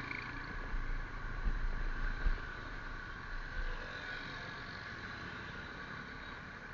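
Vehicle running with a low, uneven rumble that fades out about four seconds in, leaving a steadier, quieter noise.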